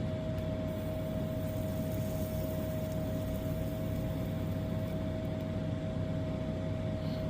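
Steady background hum and hiss with a constant high-pitched tone, unchanging throughout, like a fan or electrical equipment running.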